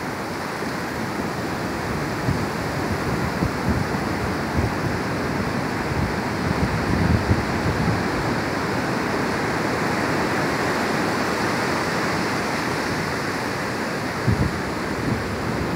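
Pacific Ocean surf breaking and washing up the beach, a steady rushing noise that swells a little toward the middle, with occasional wind buffeting on the microphone.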